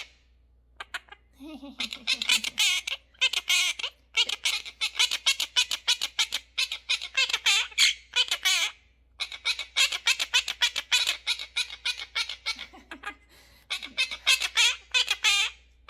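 Parrot squawking loudly in fast, harsh, repeated calls, in several runs of a few seconds each with brief pauses between them.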